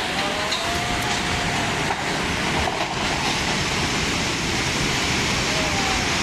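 Floodwater rushing through a street, a steady noise, with a faint wavering tone for the first two seconds or so.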